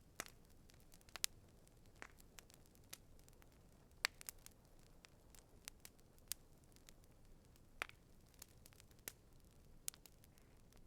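Campfire crackling: irregular sharp pops and snaps of burning wood over a soft hiss, the loudest pop about four seconds in.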